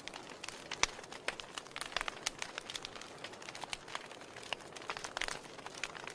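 Wood fire crackling in a fireplace: irregular sharp pops and snaps, a few louder ones around two seconds in and again about five seconds in, over a faint steady hiss of burning.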